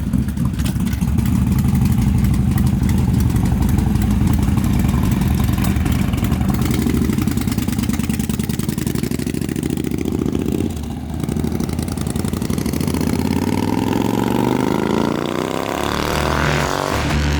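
Motorcycle engines running at a steady low idle, then revving up with a rising pitch over the last few seconds as a bike pulls away and accelerates.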